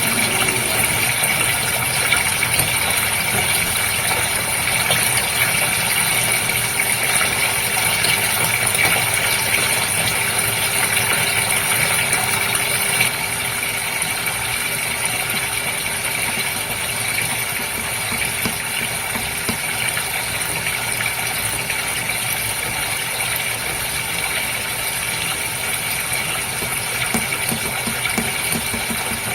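Goldfish aquarium running steadily: a motor hum from the tank's pump with a constant rush of moving water. It drops slightly in level a little under halfway through.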